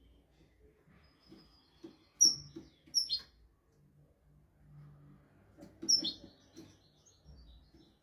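European goldfinch calling with short, sharp, high notes that fall in pitch: loud ones about two seconds in, at three seconds and around six seconds, with faint twittering between them.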